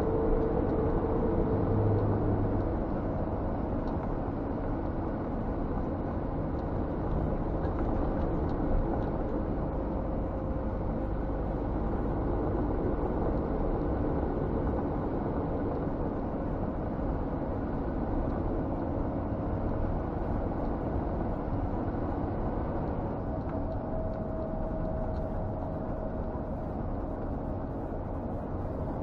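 Scania G460 truck's diesel engine and road noise heard from inside the cab while driving: a steady drone whose faint engine tones shift slightly in pitch a few times.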